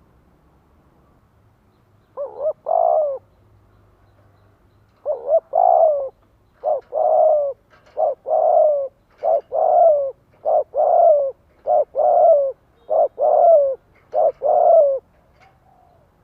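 Spotted dove cooing: after about two seconds of quiet, a run of about ten repeated phrases, each a short coo followed by a longer, falling coo, ending shortly before the close. This is the male's advertising song, played as a lure call to make other males answer.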